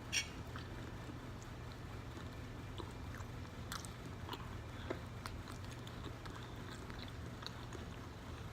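A person chewing and biting saucy stewed chicken close to the microphone, with scattered small wet clicks and smacks. A faint steady low hum runs underneath.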